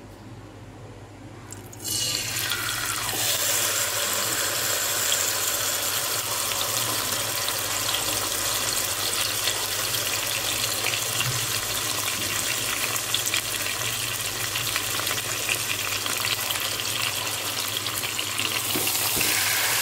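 Marinated chicken pieces sizzling in hot oil in a pan, the sizzle starting suddenly about two seconds in as the chicken goes in and then running on steadily.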